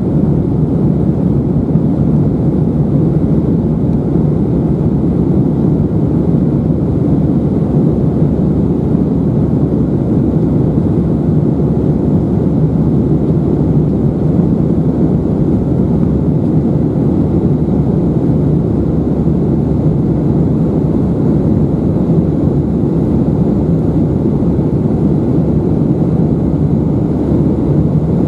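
Steady cabin noise of an Airbus A319-111 in flight: an even low rumble from its CFM56 engines and the airflow past the fuselage.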